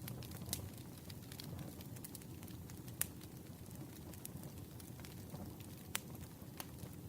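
Campfire crackling: scattered sharp pops and snaps over a low, steady rumble of burning wood. The strongest pops come about three and six seconds in.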